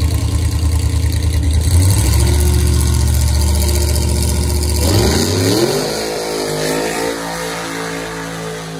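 Car engine idling low and steady, then revving up about five seconds in and holding at higher revs.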